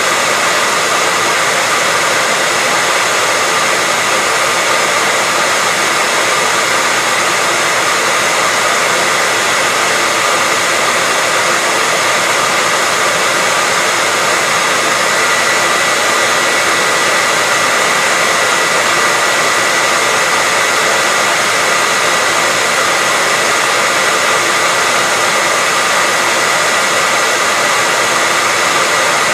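Hair dryer running steadily, an even rushing hiss with a faint steady whine, no change in speed.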